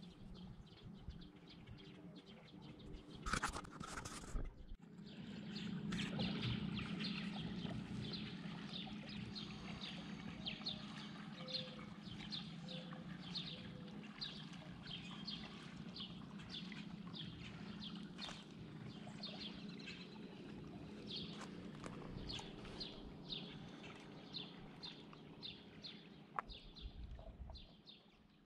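A bird calling in short, evenly repeated chirps, about one and a half a second, over a steady low hum, with a brief rush of noise about three seconds in.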